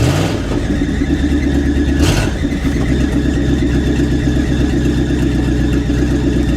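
1973 Dodge W200 pickup's engine idling steadily just after a cold start, with two short rushing noises, one right at the start and one about two seconds in.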